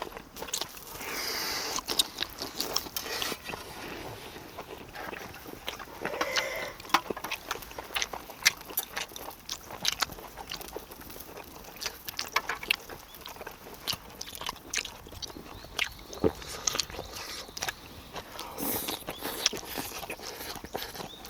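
A person chewing and biting charcoal-grilled duck meat close to the microphone, with many short, sharp mouth clicks and smacks.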